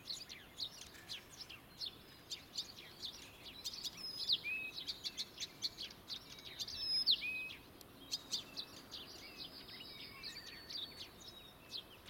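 Songbirds chirping: a busy run of short, high chirps with a few whistled notes that slide down, loudest about four and seven seconds in.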